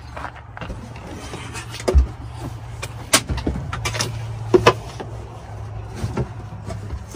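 Scattered knocks and clunks of hardware being handled, the loudest about two, three and four and a half seconds in, over a steady low hum.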